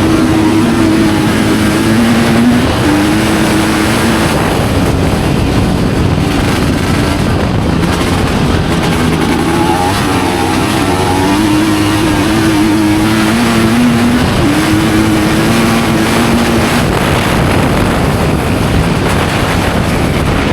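Studded-tyre ice-racing motorcycle engine running hard, its revs rising and dropping again and again, over a steady rushing noise.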